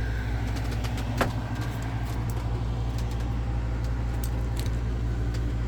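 Steady low hum of a running air conditioning unit. There is one sharp click about a second in, and a few faint ticks.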